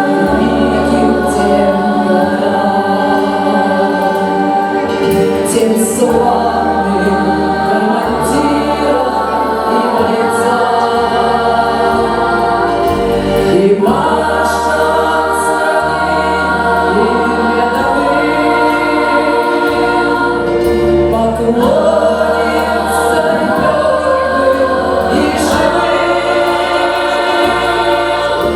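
Vocal ensemble singing in chorus over a musical backing track, holding long sustained notes that change every few seconds over a steady bass line.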